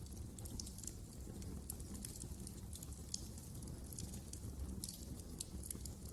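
Wood fire crackling in a fireplace: many irregular, sharp little pops and snaps over a low, steady rumble of the flames.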